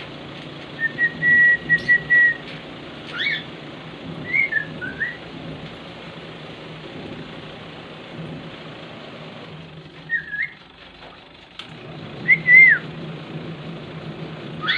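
Cockatiel whistling: a held note about a second in, then several short rising and falling whistled phrases with pauses between them, over a steady low hum.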